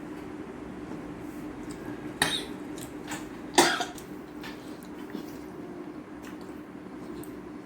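A person coughing twice, about a second and a half apart, over faint clicks of eating and a steady low hum.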